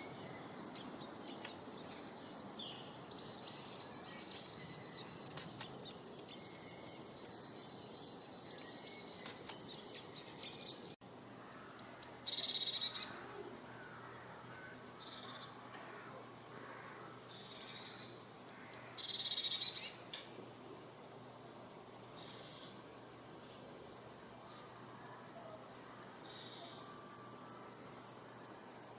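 Many birds chirping and calling at once. After an abrupt cut about eleven seconds in, a single bird repeats a short, high call every two to three seconds.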